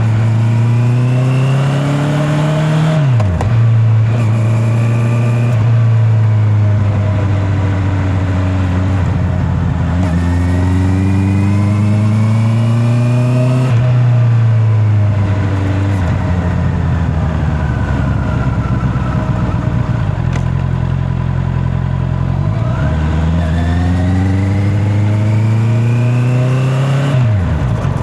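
Honda CB650R's inline-four engine pulling up through the revs and dropping sharply in pitch three times, as it accelerates and changes up a gear. In the middle it winds slowly down in pitch as the bike slows, then climbs again.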